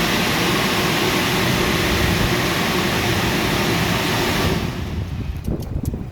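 Washtec SoftCare Pro rollover car wash's drying blowers running loud and steady, then cutting off about four and a half seconds in, leaving a low rumble and a few clicks as the cycle ends.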